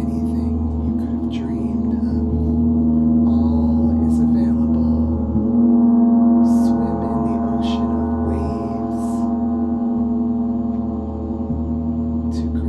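A gong resonating in a long sustained drone of many steady overtones, swelling about six seconds in. Short hissy sounds come and go above it.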